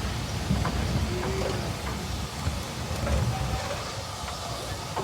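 Low, steady rumble of a heritage train on the move, fading slightly toward the end.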